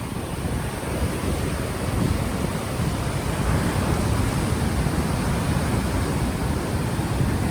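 Ocean waves washing on the shore, with wind buffeting an unshielded microphone as a gusty low rumble.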